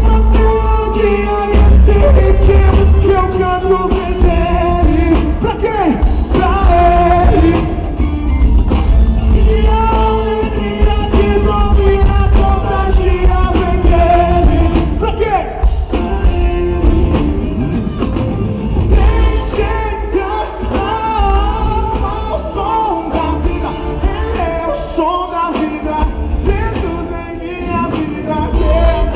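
Live gospel pop-rock band playing with singing over it, heavy bass and drums, recorded from the audience with a boomy, distorted low end.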